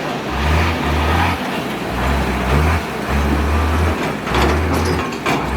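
Off-road 4x4 vehicle's engine running and revving unevenly in surges, with a few sharp knocks about four to five seconds in.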